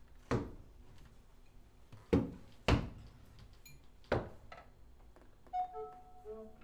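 Four sharp thuds at uneven gaps, each with a short ringing decay, then a few short, soft pitched notes near the end.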